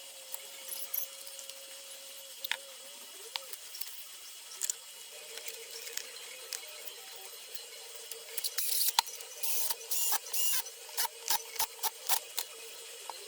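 Small metal parts of an electric fan motor being handled: scattered light clicks, then a quick run of short scrapes and clicks in the second half, over a faint steady hum.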